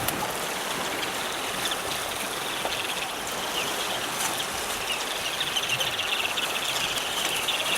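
Ruddy turnstones twittering in quick, high chirps over a steady wash of water; the twittering grows thicker in the second half.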